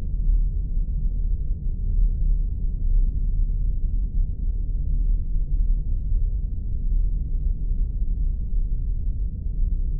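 Spaceship ambience sound effect: a steady, deep rumble with almost all of its weight in the bass and nothing above the low midrange, unchanging throughout.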